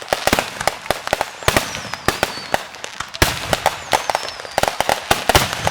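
Fireworks going off in rapid succession: a dense string of sharp bangs and crackling pops, with a couple of high whistles that slide down in pitch.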